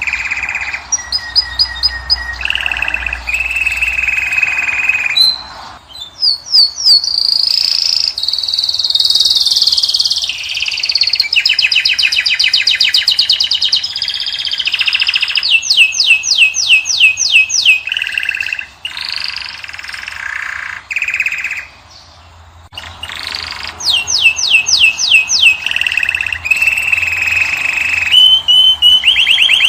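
A finch singing a long, varied song: fast trills, rapid series of repeated notes and clear held whistles, with a few short breaks.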